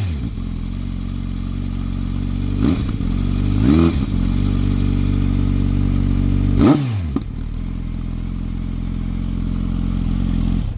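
Kawasaki Z900 inline-four idling through an SC-Project CR-T aftermarket exhaust, blipped three times by the throttle, each rev rising and falling back quickly to a steady idle.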